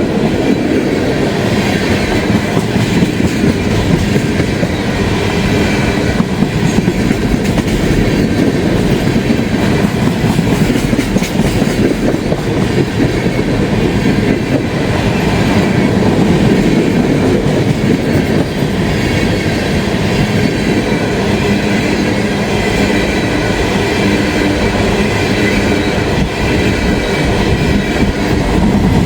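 CSX freight train of empty steel-slab gondolas and slab cars rolling past at slow speed: a steady, loud rumble of steel wheels on the rails.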